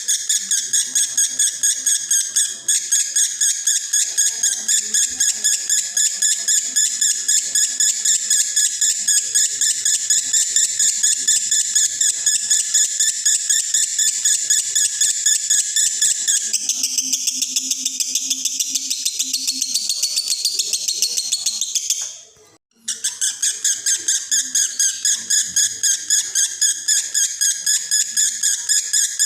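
Male lovebird in breeding condition singing a long, unbroken, rapidly pulsed chattering trill in the 'konslet' style. It stops for a moment about three quarters of the way through, then carries straight on.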